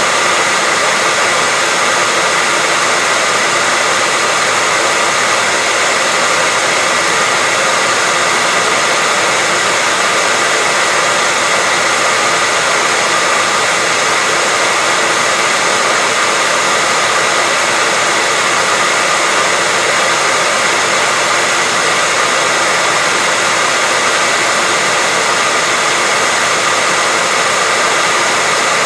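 Electric hairdryer running steadily: an even rushing hiss of blown air with a faint steady motor whine, no change in speed or level.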